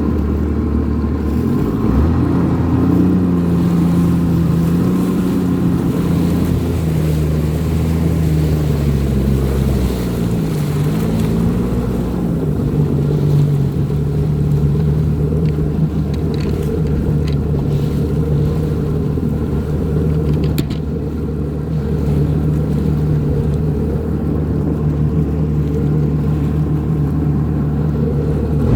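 Jet ski engine running, its pitch shifting up and down for the first ten seconds or so, then holding steady.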